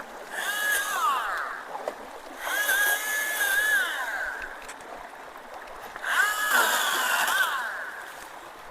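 Chainsaw run in three short bursts, cutting at a root; each time the motor is held at speed for about a second, then winds down in pitch as the trigger is let go.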